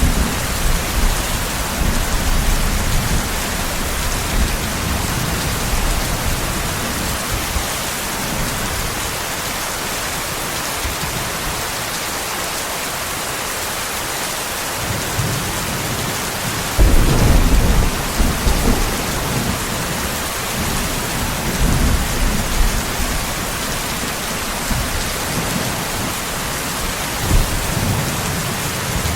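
Steady heavy rain hissing, with rolling thunder underneath. The thunder rumbles through the first several seconds, fades, then comes back suddenly and louder a little over halfway through, with smaller rumbles after.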